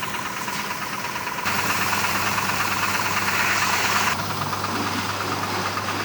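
A car-wash pressure washer's motor running steadily, with a louder hiss of spraying water from about a second and a half in until about four seconds in.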